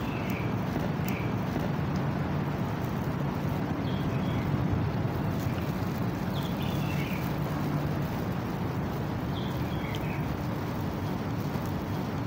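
Steady hiss of rain with a low hum underneath, and birds chirping in short calls every second or two.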